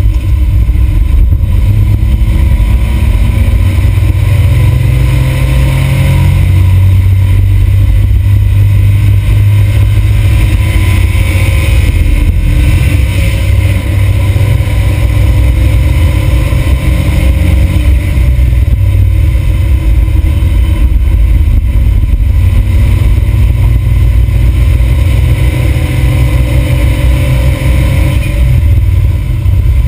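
Smart Roadster's turbocharged three-cylinder engine heard from inside the cabin at full track pace, its pitch climbing repeatedly as it revs up through the gears, over a heavy low rumble of road and wind noise.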